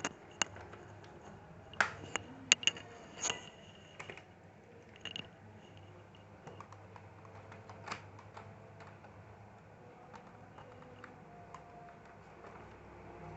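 Scattered sharp clicks and taps of plastic laptop casing parts being handled and fitted into place, a quick cluster a couple of seconds in, then a few isolated clicks.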